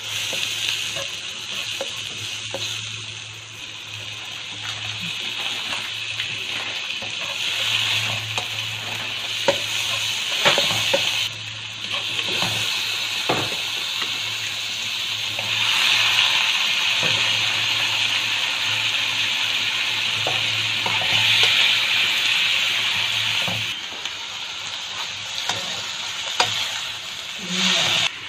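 Sliced onion, garlic and tomato sizzling in hot oil in a non-stick wok, stirred with a spatula that clicks and scrapes against the pan now and then. A low hum runs underneath.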